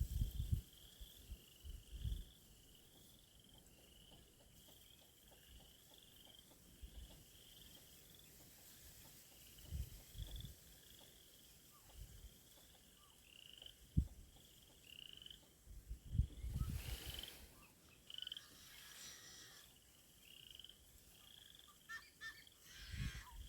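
Many frogs croaking in chorus: a steady run of short, repeated calls. Gusts of wind thump on the microphone now and then.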